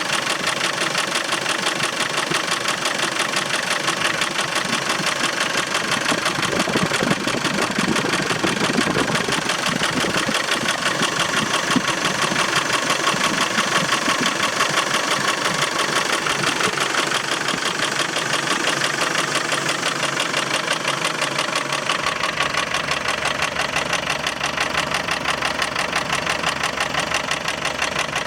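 Land Rover Defender 300Tdi 2.5-litre four-cylinder turbodiesel running steadily with a fast, even rhythmic clatter, the strange noise that appeared after a timing belt change, which the owner suspects comes from a loose timing belt or a misaligned pulley.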